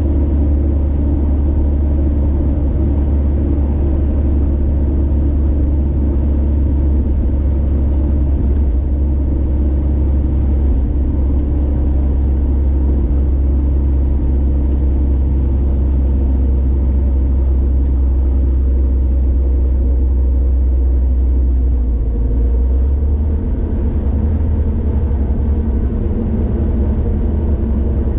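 Car driving on a highway: a steady low rumble of engine and road noise, whose deep drone shifts slightly a little over twenty seconds in.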